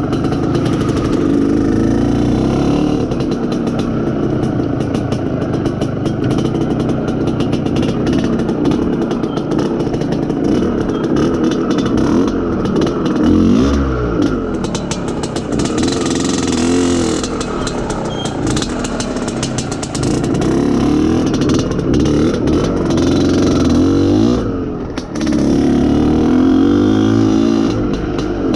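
IZh Planeta Sport motorcycle's single-cylinder two-stroke engine running under way, its pitch rising and falling with the throttle, with a brief drop-off about 25 seconds in. The engine is still being run in, so it is not revved hard.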